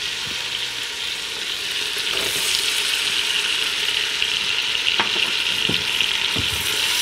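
Chopped bacon and onions frying in melted butter in a stainless steel stockpot, a steady sizzle. A few short knocks of a spatula against the pot come near the end as the mixture is stirred.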